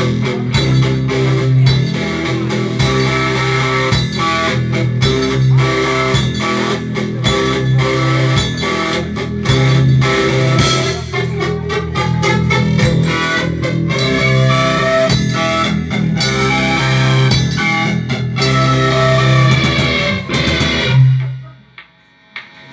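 Rock band playing an instrumental passage: guitar over a steady bass line and drum beat, with no singing. The music stops about 21 seconds in.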